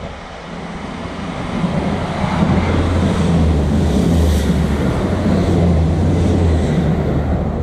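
Passenger train approaching and passing beneath the footbridge: a rumble of wheels on rail that builds and then holds loud, with a steady low hum under it.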